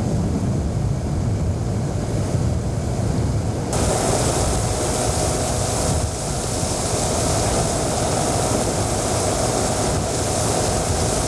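Small boat's outboard motor running steadily under way, with wind buffeting the microphone. About four seconds in, the hiss turns brighter and a faint steady whine comes in.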